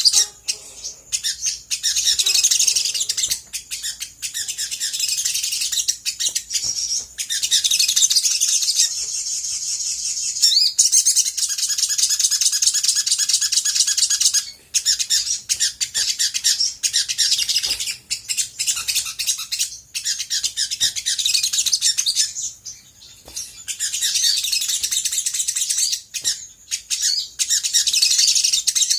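Olive-backed sunbird singing a fast, dense string of high chirps and trills, with a couple of short breaks partway through.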